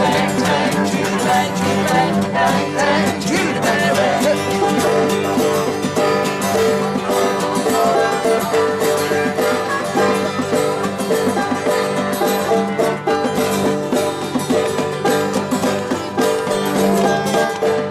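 Live acoustic band playing a driving one-chord jam, with banjo and guitars strumming over steady held low notes.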